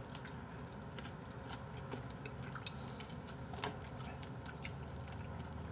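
A person chewing a mouthful of porridge, with small wet mouth clicks and an occasional light clink of a spoon or chopsticks.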